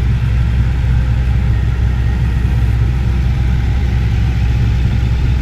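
Range Rover's supercharged 5.0-litre V8 idling steadily with the hood open.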